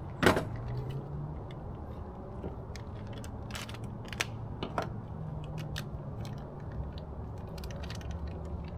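Light clicks and knocks of small metal parts and tools being handled, with one sharp click just after the start, over a steady low background hum.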